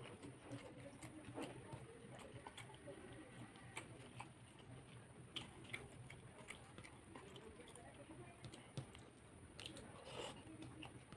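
Faint close-miked eating sounds: a person chewing chicken-feet curry and rice with soft wet mouth clicks, and fingers squishing through the food on the plate. A louder cluster of clicks comes about ten seconds in as a handful goes into the mouth.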